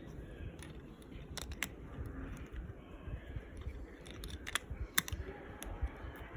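A few sharp light clicks, the clearest about a second and a half in and around four and a half to five seconds in, over low rumbling handling noise.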